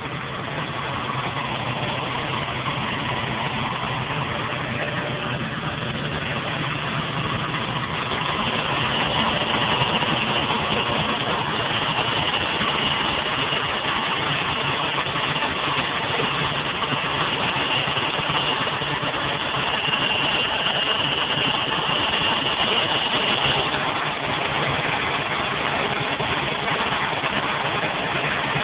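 Ford Taurus engine running at idle after a cold start, with a loud, high-pitched squeal over the engine noise. The squeal is steadiest through the middle and drops away about two-thirds of the way through.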